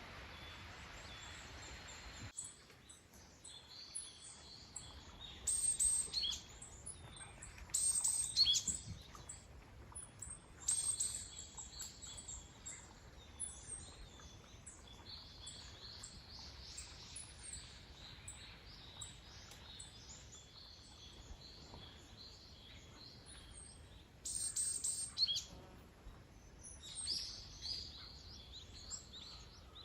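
Several small songbirds singing and calling in spring woodland: short, high, fast phrases that come and go, a few louder bursts standing out over a faint steady background. An even hiss is heard for the first two seconds, then stops suddenly.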